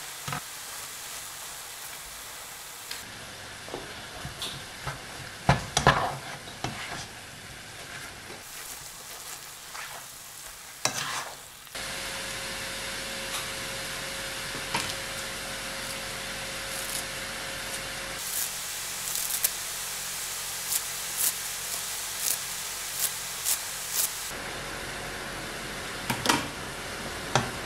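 Minced chicken, bacon and onion frying in a pan, a steady sizzle, with a utensil scraping and stirring through the mix. A run of sharp clicks comes in the second half.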